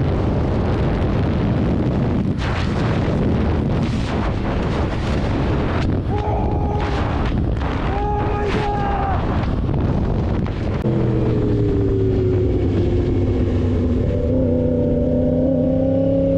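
Loud, steady wind rush and road noise from a moving motorcycle, with two steady tones about a second long near the middle. From about eleven seconds an engine note falls in pitch and then rises again.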